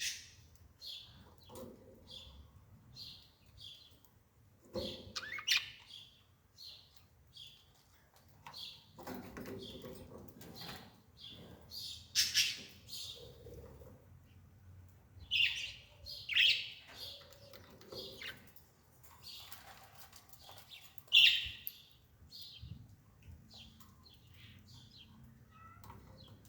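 A bird chirping over and over, short high chirps about once or twice a second, with a few louder calls mixed in.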